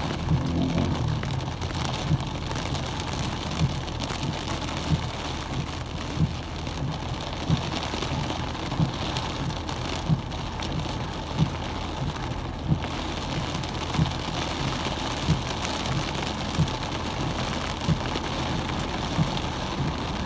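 Heavy rain pattering on a car's windshield and body, heard from inside the cabin, over a low steady hum. The windshield wipers knock at an even beat, about once every 1.3 seconds.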